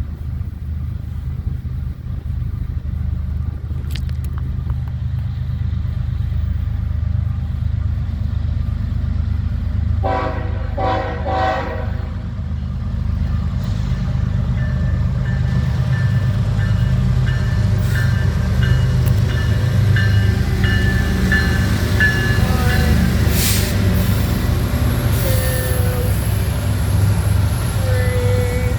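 Loaded coal train approaching behind diesel-electric locomotives (GE ES44AC leading, EMD SD70ACE second): a deep engine rumble that grows louder as it nears, with two short air-horn blasts about ten seconds in.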